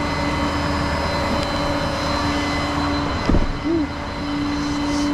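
A vehicle engine runs with a steady drone over a low rumble. A brief low thump comes a little over three seconds in, and the drone falters briefly around it.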